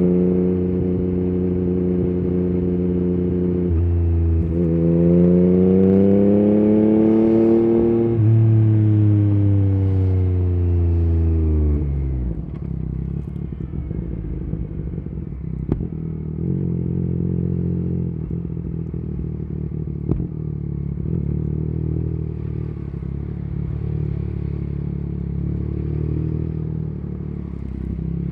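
Yamaha MT-09 three-cylinder engine through an Akrapovic carbon exhaust with the dB killer removed, ridden: it holds a steady note, changes gear about 4 s in and revs up, then falls in pitch as it slows from about 8 s in. From about 12 s it runs at low revs with an uneven note and a couple of sharp pops from the exhaust.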